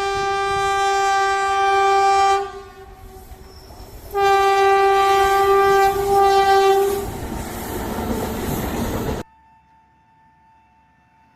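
Passing train's locomotive horn sounding two long blasts, each two to three seconds long, over the rumble and clatter of the train. The rumble cuts off suddenly about nine seconds in.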